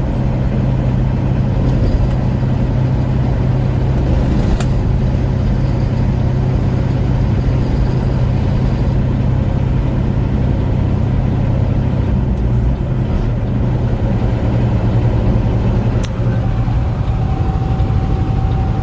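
Semi truck's diesel engine pulling steadily under load as the truck climbs a grade, with steady road noise from the cab. The engine note changes slightly about twelve seconds in.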